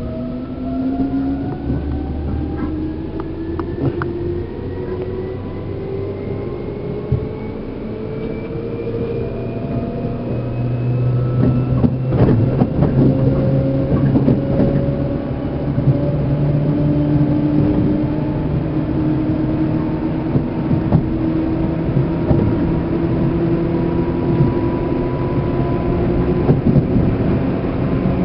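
Seibu New 2000 series electric train running, heard from inside motor car MoHa 2291: the traction motor and gear whine climbs steadily in pitch as the train picks up speed, over the rumble of wheels on rail. Clicks and knocks come from the track, most of them about twelve seconds in.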